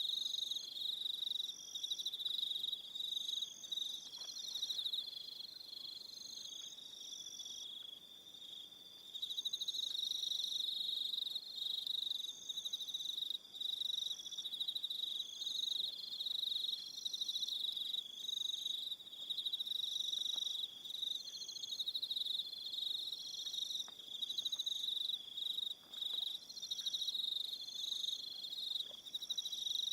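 Crickets chirping in an evening chorus: a steady, high-pitched pulsing trill, with shorter, higher trills coming and going above it. The chorus softens for a few seconds about a quarter of the way in, then returns.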